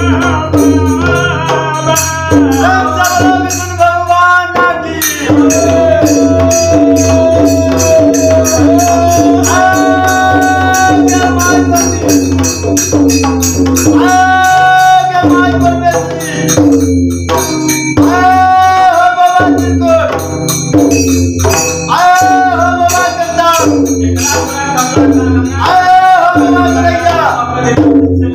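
Devotional bhajan: sung melody with jhal hand cymbals clashing steadily and drum accompaniment, playing without a break.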